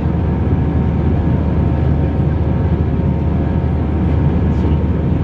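Steady cabin noise of an Airbus A320 in flight: a constant deep engine and airflow drone with a few faint steady hum tones over it.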